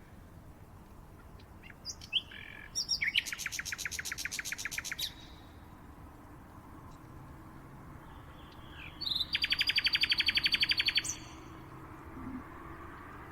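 A songbird singing two rapid trills, each a fast run of evenly repeated high notes lasting about two seconds, several seconds apart, with a few short chirps around them.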